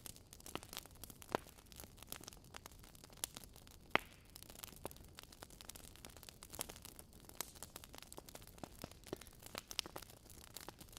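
Wood logs burning in a fireplace, crackling with irregular small pops and snaps over a low hiss; the sharpest snap comes about four seconds in.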